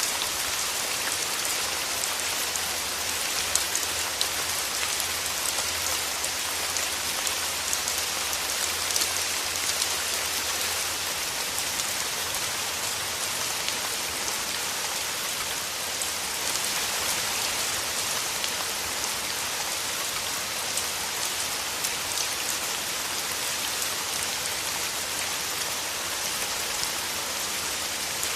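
Steady rain falling through forest trees: a dense, even hiss of drops on leaves, with scattered louder individual drops.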